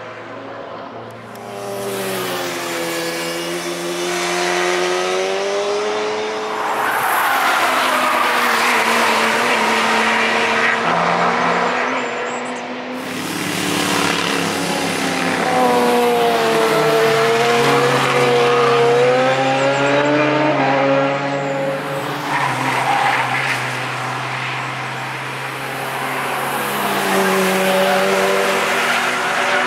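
Cars at speed on a race track passing one after another, their engines swelling and fading, with the pitch rising and dropping as they accelerate and shift gears.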